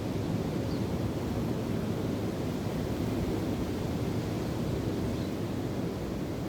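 Wind and ocean waves: a steady, low rush of noise without breaks.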